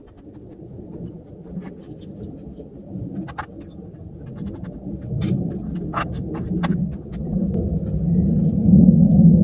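Wind buffeting the microphone as a low rumble that grows louder toward the end, with scattered light clicks and knocks over it.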